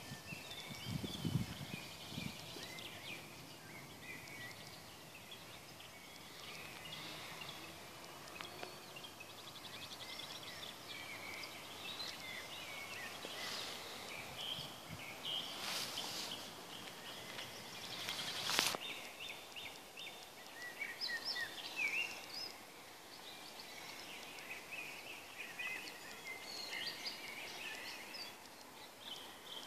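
Several songbirds chirping and singing over a faint steady background. There are a few low thumps near the start, and two sharp clicks about halfway through.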